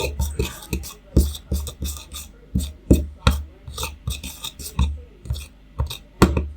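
Two-part JB Weld MarineWeld epoxy being mixed by hand, a mixing tool scraping and tapping against the mixing surface in quick, regular strokes, about three a second.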